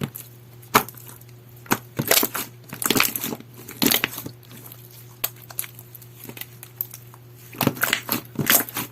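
Clear, watery slime squished and poked by hand, giving irregular sharp pops and crackles that bunch together about two to four seconds in and again near the end, over a faint steady hum.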